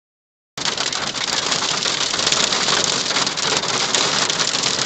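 Hail and heavy rain pelting down: a dense, steady clatter of many small hits, starting abruptly about half a second in.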